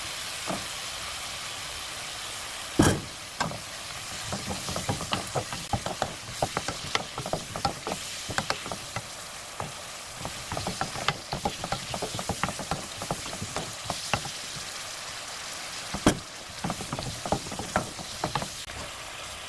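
Burdock root sizzling in a pan of soy sauce and syrup over low heat, with many small clicks and scrapes of a utensil being stirred against the pan. Two sharp knocks stand out, about three seconds in and near the end.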